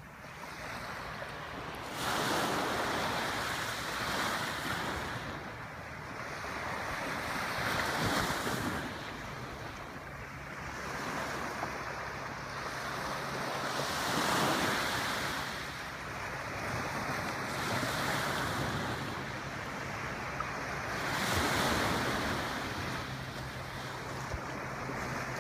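Small waves washing in at the water's edge of a beach, the surf swelling and fading every few seconds.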